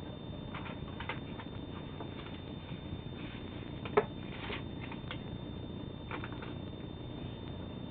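Sheet of origami paper being folded and creased by hand: scattered soft crinkles and rustles, with one sharper crackle about four seconds in, over a steady background hiss.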